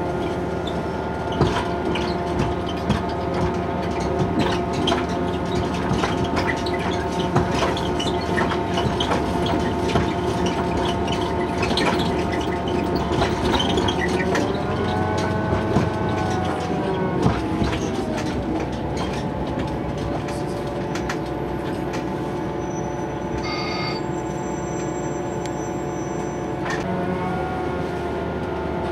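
Diesel railcar of the Chemins de fer de Provence running along the track: a steady engine drone with wheel clicks over the rails. The engine's pitch dips and rises again around the middle and once more near the end, and a thin high tone sounds briefly after the middle.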